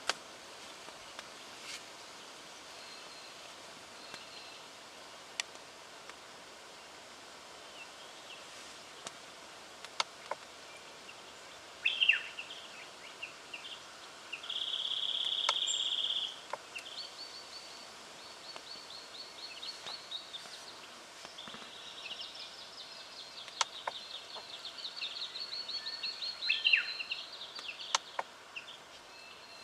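Striated pardalote calling. There is a sharp falling note, then a steady high trill lasting about two seconds, then a long run of rapid high repeated notes with a few falling notes near the end, over faint scattered clicks.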